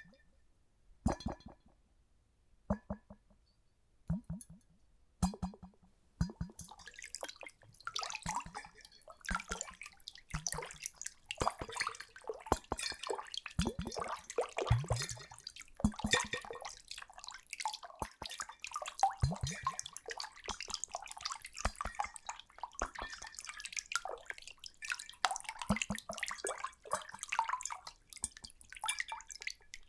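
Water splashing close to the microphone. It starts as separate low plops about once a second, then turns into continuous splashing and sloshing about six seconds in.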